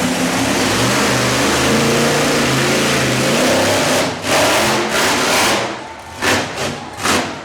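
Monster truck engine running hard under throttle, its pitch climbing and holding, then dropping off about four seconds in, followed by a few short throttle blips near the end.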